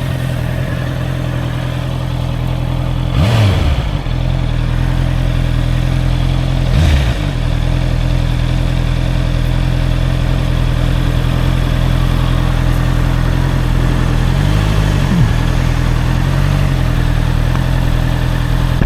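Honda CBR 650R's inline-four engine running steadily while the bike is ridden. The engine note dips briefly and picks up again about 3 and 7 seconds in, and wavers again near 15 seconds.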